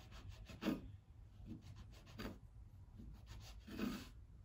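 Faint rubbing and scraping from handling cut pieces of cooked dough on a board, with three stronger soft strokes about a second and a half apart.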